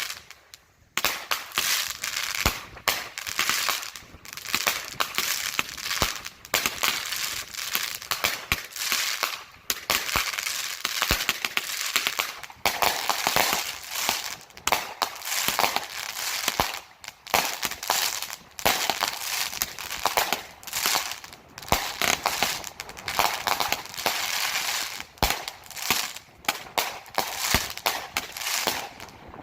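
Consumer 200-gram repeater firework cakes going off: a dense, continuous crackle of many small pops, with scattered sharper reports mixed in.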